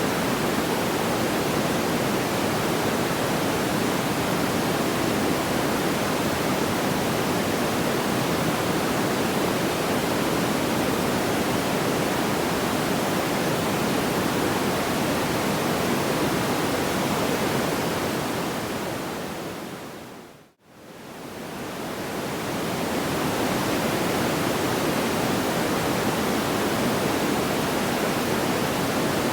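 Steady, even rushing noise of a looped campfire sleep-sound track, with no distinct crackles standing out. About two-thirds of the way through it fades down to silence for a moment and fades back in, a loop seam.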